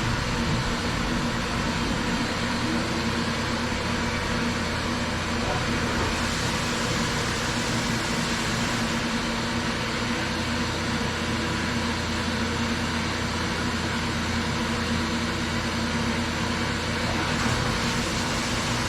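DN Solutions SVM 4100 CNC vertical mill running its program, with a steady low machine hum under an even hiss. The sound shifts slightly about halfway through and again near the end.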